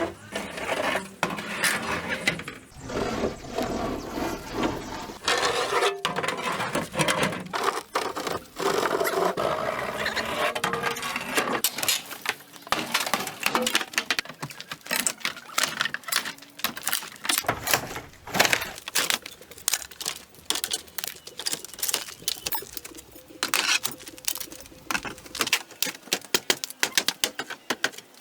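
A rapid, irregular series of sharp clicks and knocks, with a scraping or rustling noise under them for the first ten seconds or so. The clicks come quicker and more evenly in the second half.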